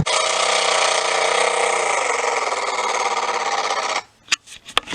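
Turbocharged inline-six engine of a 1998 Ford EL Falcon held at steady high revs, easing down slightly about two seconds in, then cutting off suddenly about four seconds in. A few sharp clicks follow.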